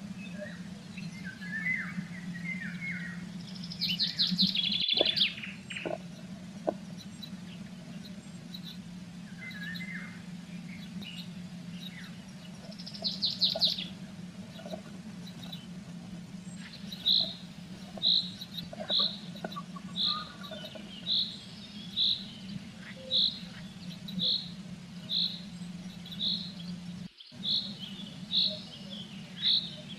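Small songbirds singing: two short, rapid high trills, then a long series of evenly spaced single high notes about one a second, over a steady low electrical hum. The playback runs 1.3 times fast, raising the pitch.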